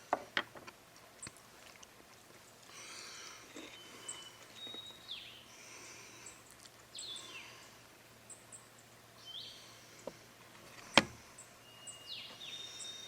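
Birds singing, in short phrases of whistled and sliding notes that come and go every second or two. There are a few faint clicks and knocks, and one sharp knock about eleven seconds in is the loudest sound.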